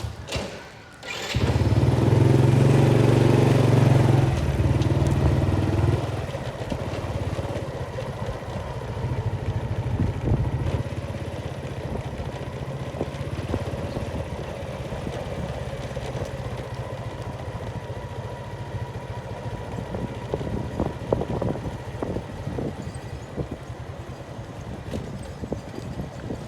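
A small engine kicks in about a second and a half in, runs loudest for a few seconds, then settles into steady running.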